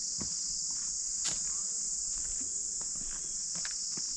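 Steady, shrill chorus of insects droning without a break. A few faint clicks and taps sound beneath it, the sharpest about a second in.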